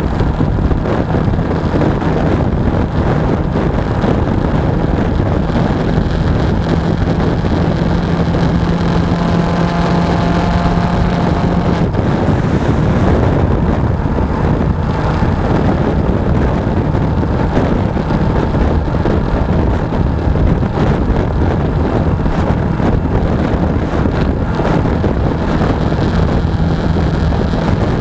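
Suzuki V-Strom 250 motorcycle riding at steady speed: its twin-cylinder engine running under a constant rush of wind on the action camera's microphone. The engine note drops suddenly about twelve seconds in.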